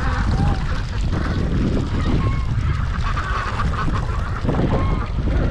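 Domestic geese honking now and then among the farmyard poultry, over a heavy low rumble of wind on the microphone.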